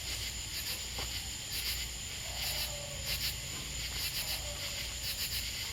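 Night insects chirping in quick pulsed clusters over a steady high-pitched whine.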